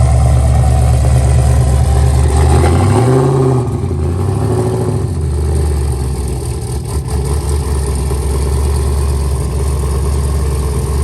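A vehicle engine idling loudly and steadily, with a brief rise and fall in pitch about three seconds in, like a short blip of the throttle.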